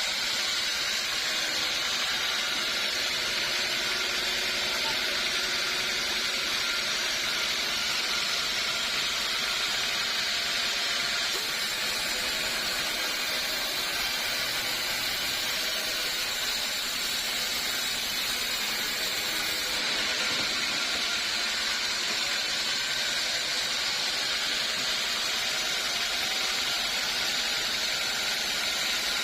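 Sawmill saw cutting through teak wood, a steady hissing noise with no break.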